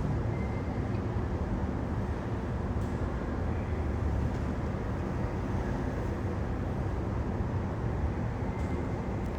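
Steady low rumble of jet aircraft engines, even throughout with no sudden changes.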